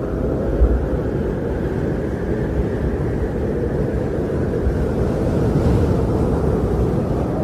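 Winter wind blowing in a steady low rush, swelling slightly about five to six seconds in.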